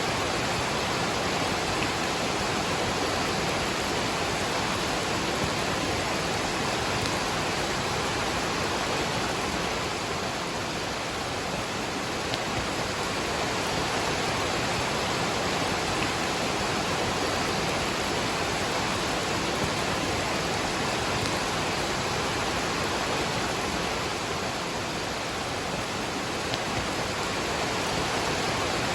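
Waterfall rushing steadily, mixed with falling rain: an even, unbroken roar of water.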